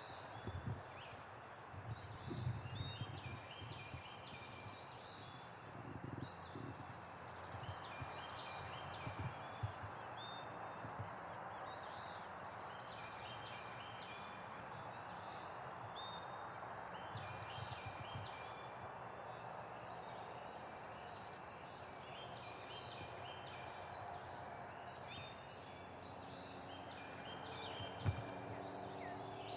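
Wild turkeys gobbling faintly in the distance, with many songbirds singing short chirps and trills throughout. A few soft low knocks stand out, the loudest near the end.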